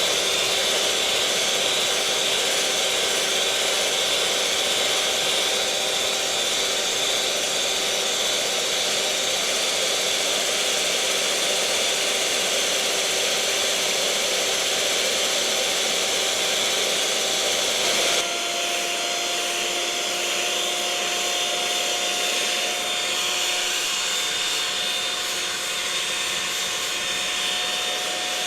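Electric mixer motor running steadily with a loud whirring hum and a faint steady whine. About eighteen seconds in, the sound shifts abruptly to a slightly lower-pitched, slightly quieter whir and runs on steadily.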